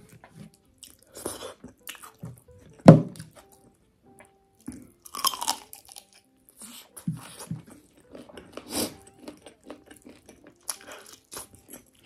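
Close-miked eating sounds: wet chewing, lip smacks and crunchy bites of a curried chicken leg eaten by hand. A sharp loud smack comes about three seconds in, with further bursts of chewing near the middle and around nine seconds.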